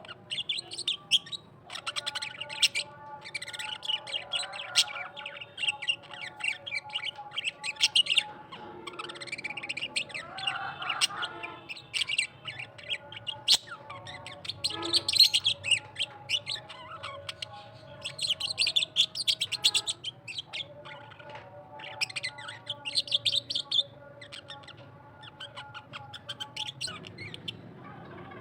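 An Australian parrot singing: a long, busy run of rapid chirps and warbling notes, broken by short pauses.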